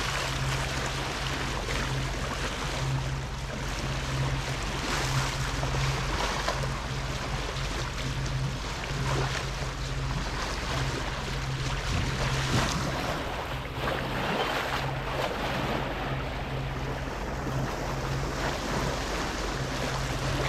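A boat under way with its engine humming low and steady, over a constant wash of water along the hull and wind noise on the microphone, with a few brief louder rushes of water.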